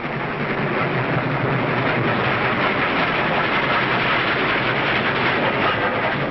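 Train running on the rails: a steady rush of running noise that swells up at the start and holds.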